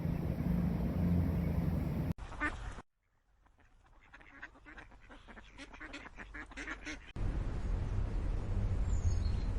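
Ducks quacking in a quick run of calls that grows louder, set between stretches of wind rumbling on the microphone; the sound changes abruptly several times.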